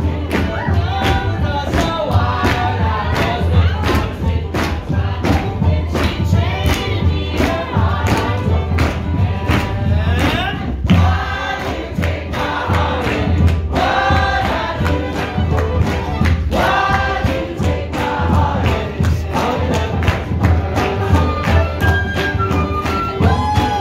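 Live acoustic band music with a steady beat and a strong low bass line, and voices singing along.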